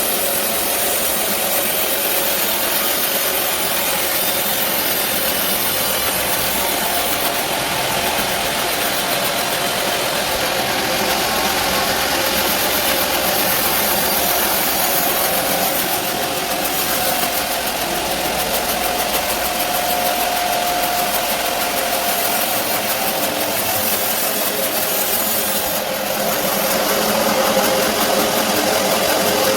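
Band sawmill running steadily with a constant machine hum and a faint held tone, getting a little louder near the end.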